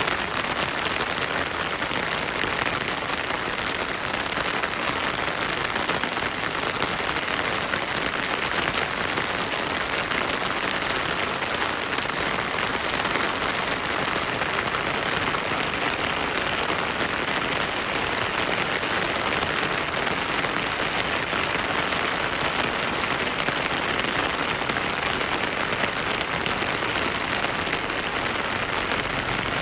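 Heavy rain falling steadily, an even, unbroken hiss of drops that neither builds nor eases.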